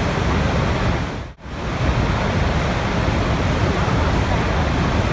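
Rushing water in a steady, dense wash with a heavy low rumble. About a second and a half in it dips abruptly almost to silence for a moment, then comes straight back.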